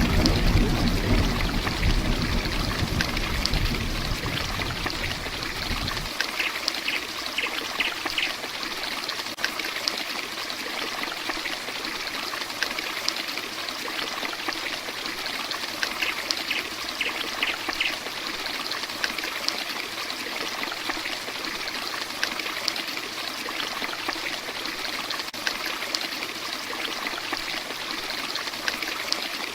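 Heavy rain falling steadily, with scattered drops ticking. A low rumble underneath stops abruptly about six seconds in.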